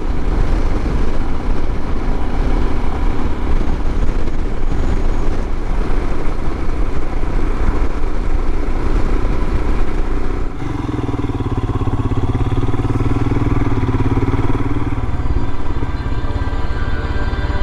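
Royal Enfield Himalayan's single-cylinder engine running at road speed under heavy wind rush. About ten seconds in the rush eases a little, the engine note becomes steadier and lower, and a faint rising whine follows as it gains revs.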